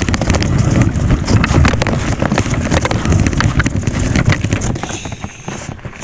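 Wind rushing over a camera microphone on a moving bicycle, a loud low rumble peppered with small clicks and rattles; it eases off about five seconds in.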